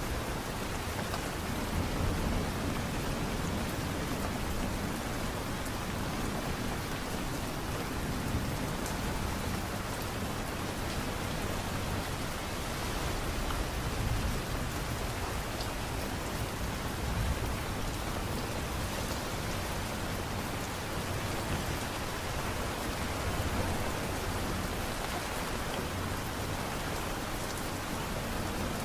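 Steady light rain falling, an even hiss with a low rumble beneath it that swells slightly a few times.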